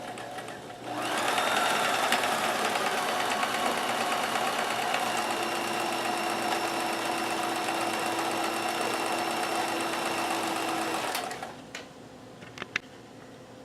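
Kenmore 158.1914 sewing machine running steadily, stitching a four-point zigzag through denim. It starts about a second in, runs for about ten seconds and stops, followed by two light clicks.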